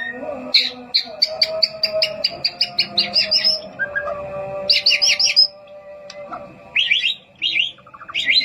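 White-rumped shama singing: a fast run of repeated chirping notes, about five a second, then shorter bursts and whistled phrases with brief pauses between them.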